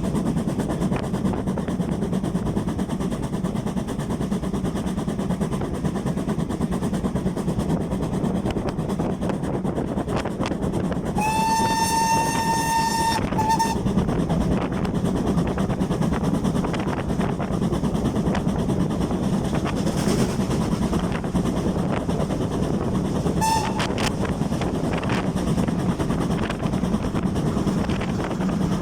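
Steam train running with a steady rumble. About twelve seconds in, GWR 4953 'Pitchford Hall's whistle gives one long high note of about two seconds followed by a short toot, and later a second short toot.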